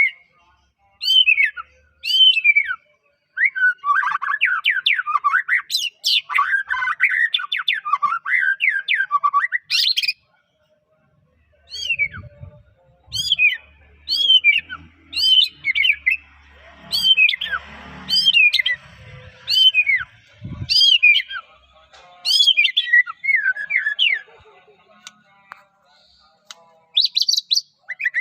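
White-rumped shama (murai batu, Medan strain) singing loudly and in full voice. It gives repeated sharp down-slurred whistles and a long run of rich warbling, pauses briefly, returns to the repeated whistles, and ends with a fast trill.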